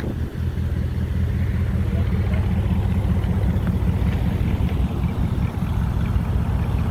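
A 1952 Muntz Jet's original Ford flathead V8 idling with a steady, low exhaust rumble.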